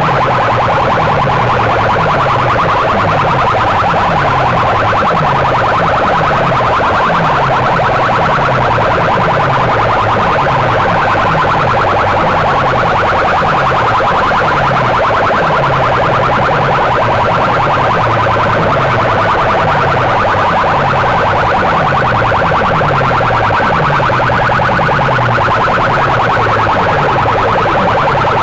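Competition sound-system speaker boxes blasting a loud, distorted electronic siren-like tone. Under it runs a low pattern that steps down in pitch and repeats about once a second.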